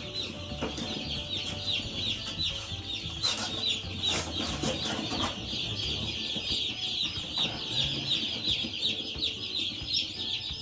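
Over a hundred Cornish Cross broiler chicks peeping continuously, a dense chorus of many short high calls. A few rustling handling noises come through around the middle.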